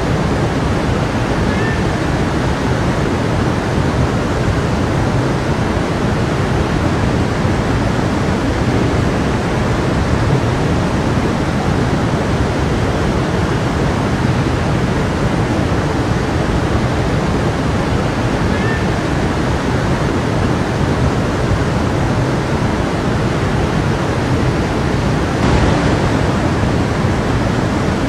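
A stream running steadily, a full, even rush of water, with a brief louder swell near the end.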